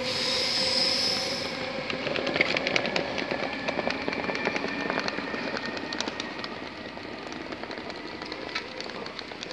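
Electric passenger train pulling away into a tunnel, with a high whine in the first second and a half, then its wheels clicking over the rail joints as the rumble fades away.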